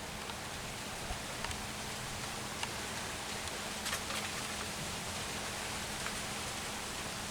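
Steady outdoor background hiss with a few faint, scattered ticks and clicks.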